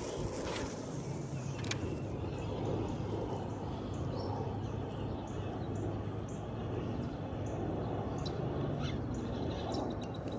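Birds chirping here and there over a steady rushing background of the river being waded.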